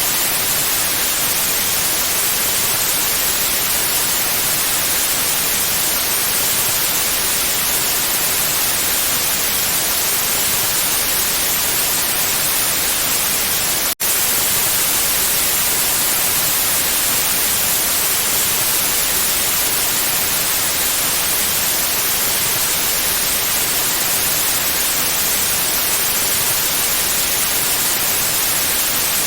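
Steady white noise: an even hiss, brightest in the high frequencies, with no tones or rhythm. It drops out for a split second about halfway through, then resumes at the same level.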